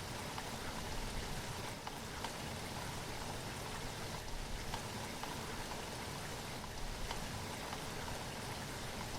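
Steady rain falling, with individual drops ticking faintly against a surface.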